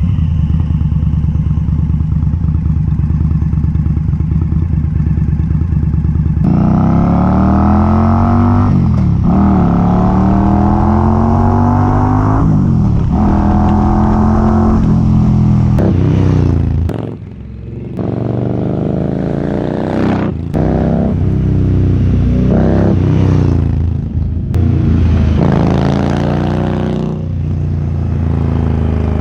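2019 Indian Scout V-twin through a Vance & Hines exhaust, under way: it runs steadily for a few seconds, then accelerates repeatedly, the pitch climbing and falling back at each gear change, with a brief drop in level about halfway through.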